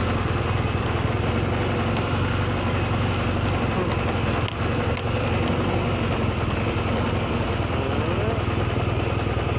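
BMW R1200GS boxer-twin motorcycle engine running steadily while riding, with wind and road noise; the level dips briefly about four and a half seconds in.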